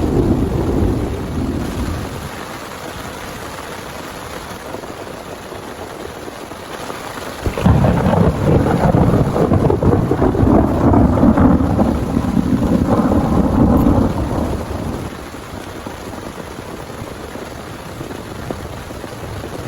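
Heavy rain falling steadily, with a thunderclap that breaks suddenly about a third of the way in and rolls on for about six seconds before fading. The tail of an earlier rumble dies away at the start.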